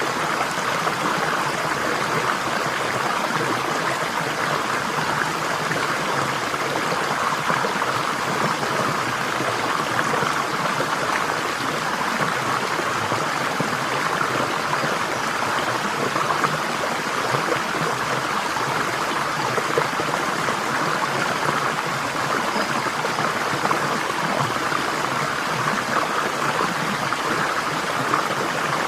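Flowing water of a stream, rushing steadily and evenly with no breaks.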